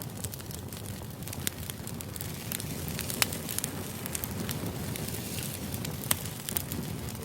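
Background ambient noise track: a steady low rumble with scattered sharp crackles and pops, a few of them louder than the rest.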